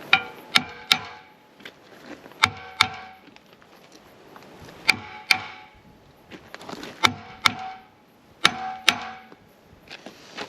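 Sharp metal-on-metal strikes on a mower's pulley and puller, coming mostly in pairs about every two seconds, each leaving a brief metallic ring.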